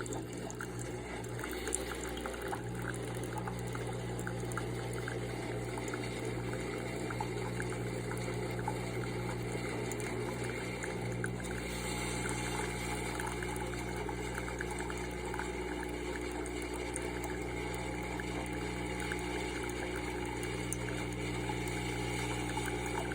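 Mixpresso K-cup coffee maker brewing: its water pump hums steadily while hot coffee pours and trickles into the mug.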